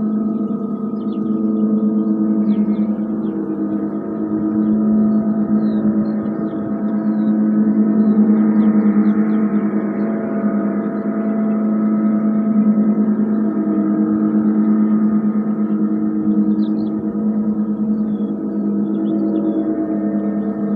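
Gong played for a sound bath: a continuous, layered, humming drone with a strong low tone and many overtones, swelling and ebbing every few seconds.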